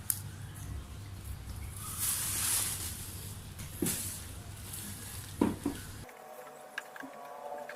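Two-part glue being stirred by hand: soft scraping, loudest about two seconds in, with a few small knocks and clicks.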